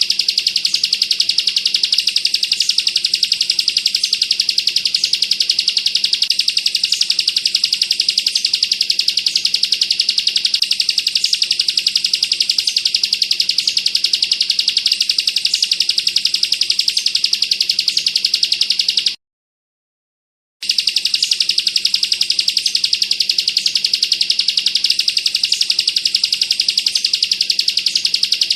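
Bar-winged prinia (ciblek) song: a continuous, very rapid, high-pitched machine-gun trill with no pauses, broken once by a short silence about 19 seconds in.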